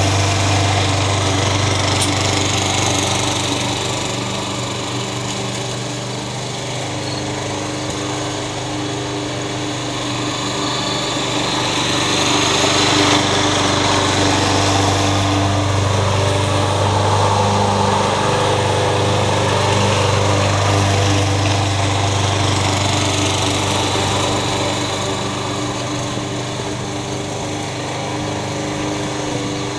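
Yard Machines walk-behind lawn mower's small four-stroke engine running steadily after a tune-up with fresh oil, a new spark plug and a clean air filter. Its level slowly swells and fades.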